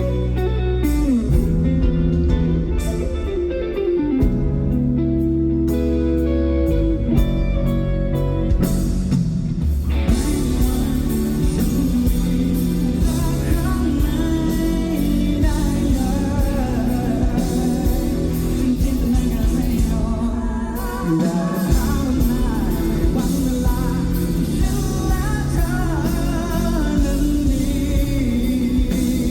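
Live pop-rock band music: guitar-led playing with short breaks, then the full band comes in with singing about ten seconds in.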